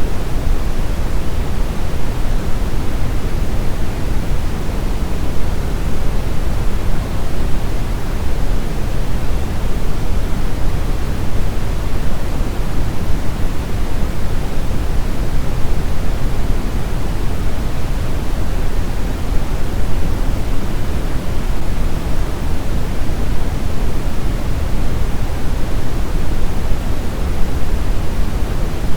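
Brown noise: a steady, even hiss with its weight in the low end, a deep rumble thinning toward the highs, with no changes or breaks.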